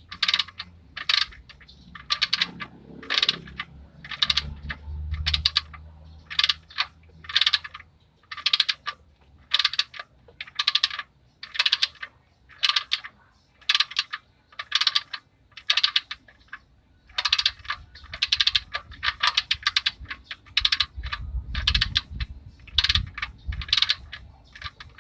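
Socket ratchet wrench driving the drain plug into the oil pan of a Hyundai Eon: a quick burst of ratchet clicks on each back-swing, repeating evenly about twice a second.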